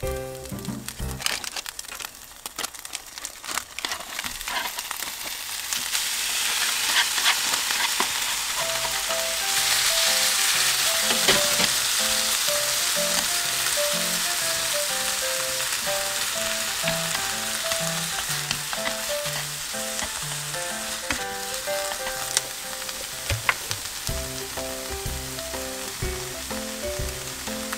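Bacon, garlic and kimchi sizzling in a nonstick frying pan while being stirred with chopsticks. The sizzle grows much louder about a third of the way in, once the kimchi goes in, then stays steady. Light background music plays underneath.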